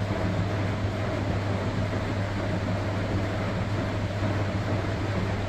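Electrolux Professional WN6-20 commercial washing machine running while detergent suds are injected: a steady low hum under an even hiss, unchanging throughout.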